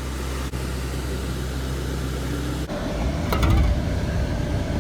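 Steady low vehicle hum, typical of a car's cabin while driving. About two and a half seconds in, the sound switches suddenly to a louder, rougher low rumble.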